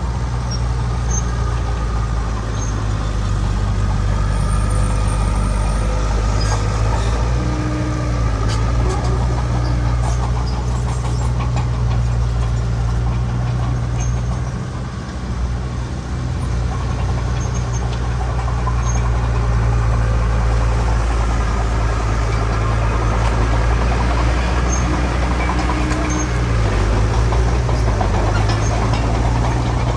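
Heavy diesel earthmoving machinery running steadily under load, a deep engine drone that dips briefly about halfway through.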